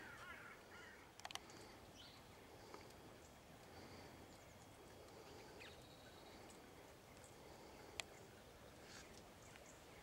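Near silence: quiet farmyard ambience with faint bird calls and two short sharp clicks.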